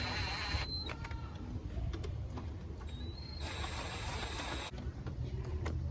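Hand ratchet wrench clicking as spark plugs are threaded back in and snugged down gently.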